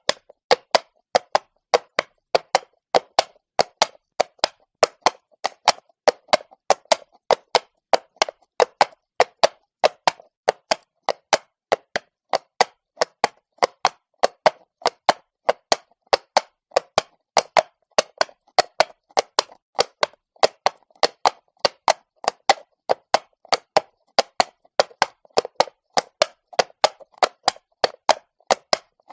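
Horse's hooves clopping on stone at a walk: a steady, even rhythm of sharp clops, about three a second.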